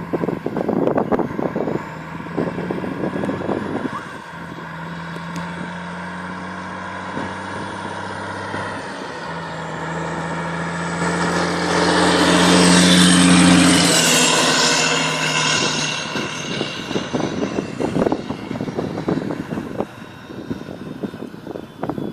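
A truck driving past, its engine note building to its loudest about twelve to fourteen seconds in as it comes closest, then fading away. Gusts of wind buffet the microphone near the start and end.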